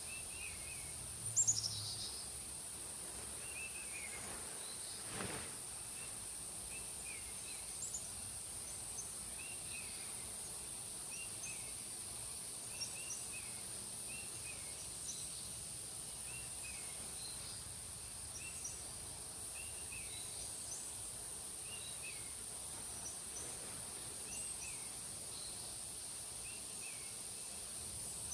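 Forest ambience: a steady high-pitched insect drone, with a bird repeating short chirps every second or two. One louder, falling call comes a little over a second in.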